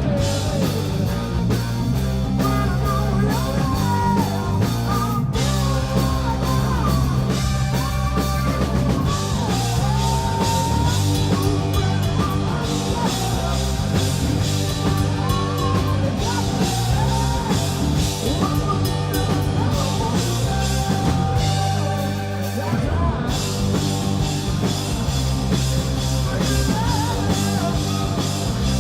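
A rock band playing live: drum kit, electric guitars and bass, with a singing voice over them.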